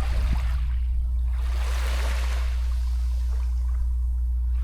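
Water washing and trickling, rising and falling in slow surges, over a steady low hum.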